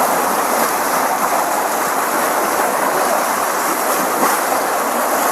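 Swift flash-flood water rushing, a loud, steady noise.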